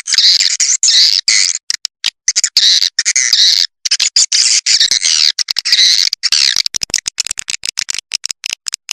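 Swiftlet lure call, as played to draw edible-nest swiftlets into a swiftlet house: dense, high chirping twitters broken by rapid runs of sharp clicks, with a quick row of short repeated chirps starting near the end.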